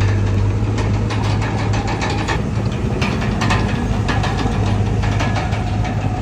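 Komatsu D31PX bulldozer's diesel engine running steadily, with a strong low hum and many short clicks and clanks; a faint whine comes in about halfway.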